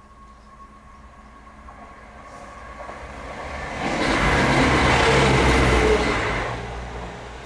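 Diesel multiple-unit passenger train passing over a level crossing: it builds up as it approaches, is loudest as it runs past the gates about four to six seconds in, then fades away.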